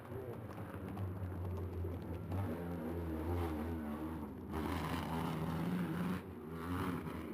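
Hillclimb race car engine revving hard as it accelerates, its pitch wavering up and down, with short breaks for gear changes about every two seconds.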